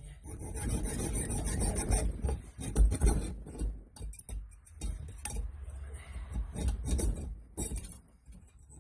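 Hand filing or rubbing down a part: irregular rasping, scraping strokes with dull knocks mixed in.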